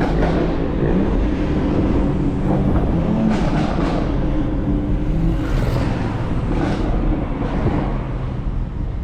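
A car's engine and exhaust running while driving, a steady low drone whose pitch drifts a little as the throttle changes.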